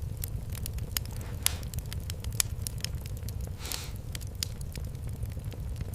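Fireplace fire crackling: frequent sharp pops and snaps over a low steady rumble, with a brief hiss about three and a half seconds in.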